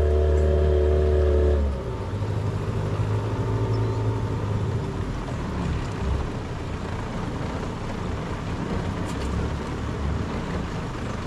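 Boat outboard motor running steadily at speed, then throttled back a little under two seconds in to a lower, rougher idle.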